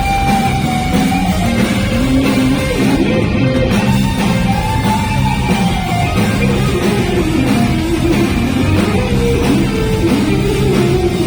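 Live rock band playing loudly and steadily: an electric guitar lead with notes that bend and glide up and down, over bass and drums.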